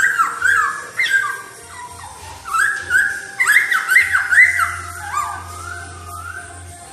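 Laughingthrush (poksay) singing: runs of loud, sliding whistled notes, several a second, in two bursts, with a few softer notes near the end.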